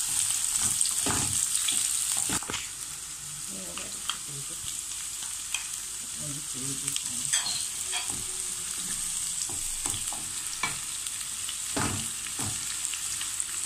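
Sliced onions sizzling in olive oil in a frying pan, turned with a wooden spatula that scrapes and knocks against the pan now and then. The sizzle drops a little about two seconds in.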